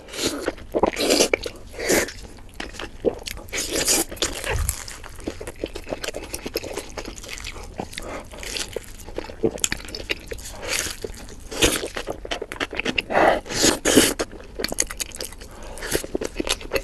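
Close-miked eating sounds: crunching, biting and chewing on pieces of spicy chicken from a hotpot, in irregular bursts of crisp clicks with a few louder crunches.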